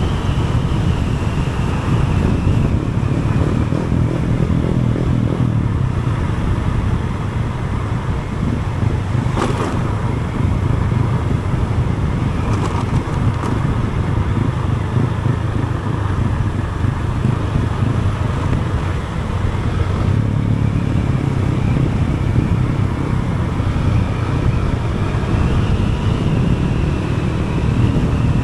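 A vehicle on the move, heard from on board: a steady engine drone with wind and road noise, and one short sharp knock about nine and a half seconds in.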